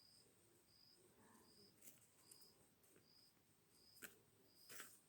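Near silence with a faint, high insect chirp repeating evenly a little more than once a second, and a few faint clicks.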